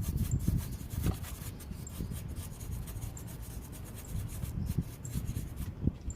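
A brush scrubbing surfaces in a car's engine bay, in many quick, irregular strokes.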